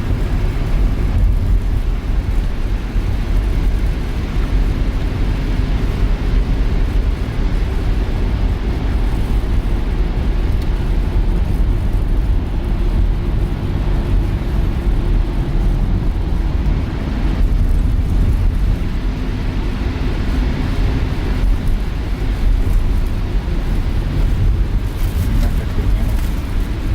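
Engine and road noise heard from inside a moving van: a steady low rumble of engine, tyres and road.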